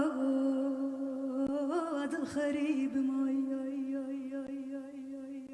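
A woman singing a Kurdish folk song, holding a long note with a slight vibrato. She breaks briefly into a wavering ornament about two seconds in, then holds the note again as it fades toward the end.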